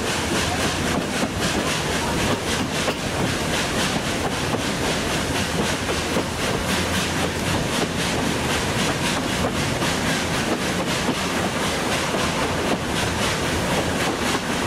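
Train running along the track: a steady rumble with many irregular wheel clicks.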